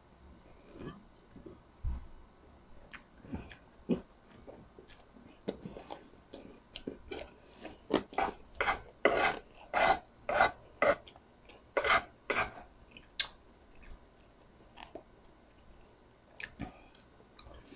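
Close-miked eating sounds of pork sisig: wet chewing and mouth smacks, with a metal spoon scraping the wooden plate. The sounds come irregularly, with a denser, louder run about eight to twelve seconds in.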